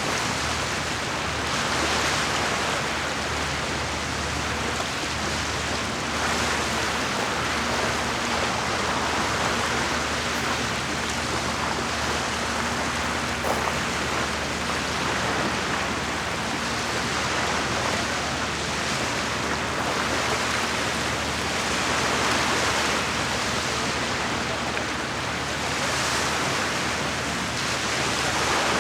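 Small lake waves lapping and washing against the shore, with gentle swells every few seconds. A low steady hum runs underneath.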